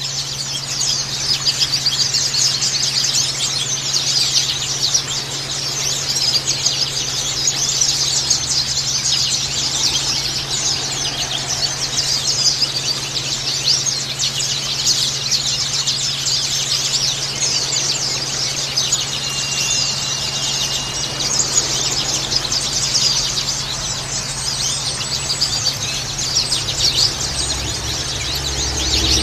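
White-eyes (pleci) chirping in a dense, continuous stream of quick, thin, high calls, played as a lure call to set other white-eyes singing. A steady low hum runs underneath.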